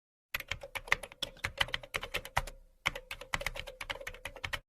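Typing on a computer keyboard: quick, uneven keystroke clicks, about eight a second, with one short pause about halfway through. It starts and stops abruptly.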